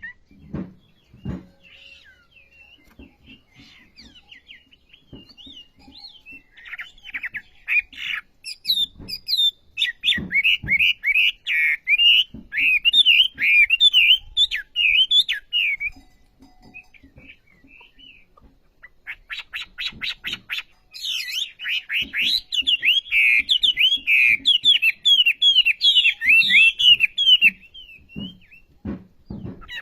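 Wambi songbird singing vigorously in two long bursts of fast, twittering song, the first starting about a quarter of the way in and the second about two thirds in, with a few scattered chirps and soft knocks between them.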